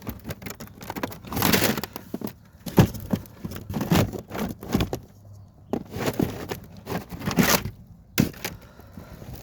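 Irregular clattering, knocking and scraping as the wooden parts and plastic foundations of a flat-packed beehive kit are handled and unpacked, with quieter gaps about five and eight seconds in.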